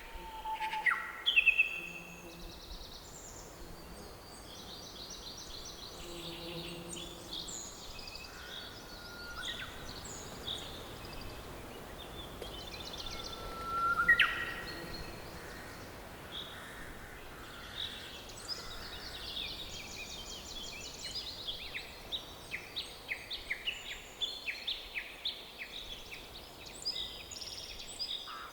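Several songbirds singing and calling over a faint steady background hiss of forest ambience. A loud rising call comes about fourteen seconds in, and the second half fills with rapid trills of quickly repeated notes.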